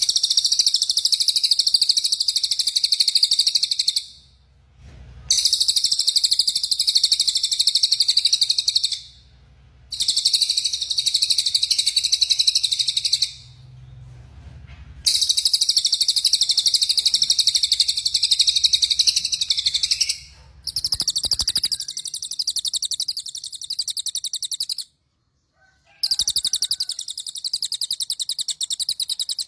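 White-rumped shama (murai batu) singing long rapid-fire 'tembakan' phrases: fast, high, repeated trilling in about six bursts of several seconds each, with short pauses between them.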